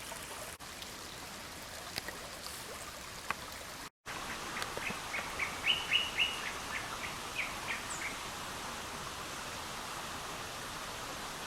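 A bird sings a quick run of about a dozen short, high notes, starting a little after four seconds in, over the steady rush of a forest stream.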